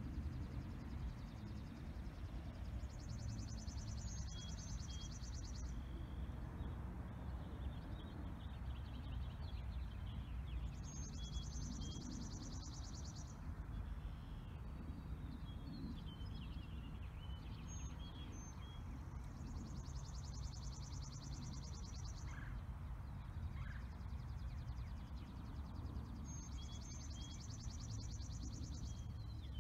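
Outdoor ambience: a small songbird sings a rapid, high, even trill about three seconds long, four times, with a few short chirps between, over a steady low rumble.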